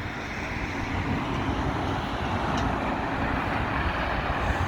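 A Blackpool tram running past along the promenade track: a steady rolling rumble.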